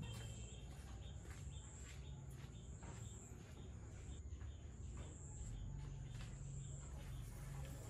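Insects trilling at a high pitch in on-and-off stretches, with scattered soft clicks and a low hum underneath.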